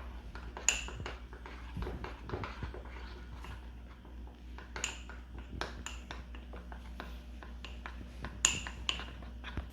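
A metal spoon clinking, tapping and scraping against a cup while Nutella is worked into mug-cake batter, with many light taps and three louder ringing clinks.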